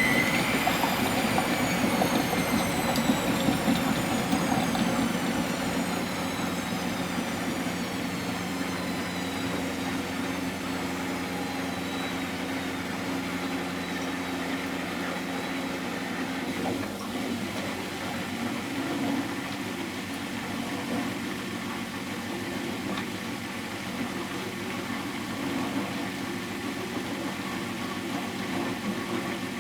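Miele Professional WS 5426 washing machine spinning down. The drum motor's whine peaks at the start and then falls steadily over about fifteen seconds as the drum slows, over a low steady hum.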